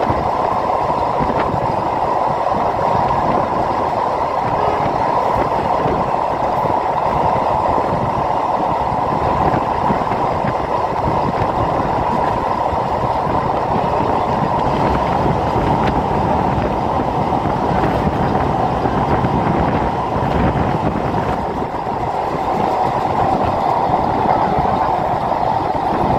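Passenger train coaches rolling at speed over ballastless concrete slab track on an elevated viaduct, heard from an open doorway. It is a loud, steady rolling rumble and rail roar that is loud enough to drown out talk.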